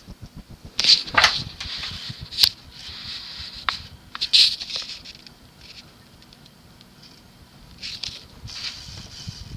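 Cast-iron ceiling fan motor running on medium with a steady hiss from its slightly worn bearings. Sudden louder bursts of hiss break in about a second in, at two and a half seconds, around four and a half seconds and again near the end, the first with a short falling squeak.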